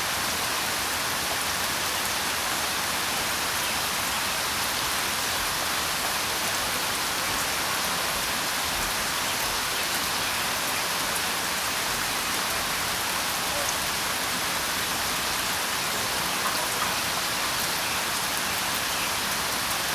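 Steady rainfall: a continuous, even hiss of falling rain with faint individual drop ticks scattered through it.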